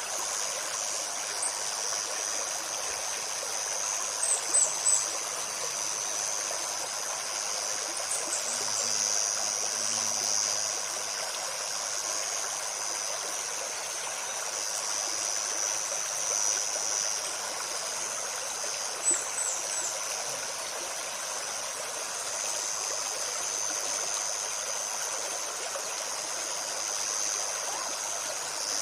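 A shallow stream babbling steadily over stones, with a steady high-pitched insect drone over it. A few quick, high bird chirps come about four seconds in, again around eight seconds, and near nineteen seconds.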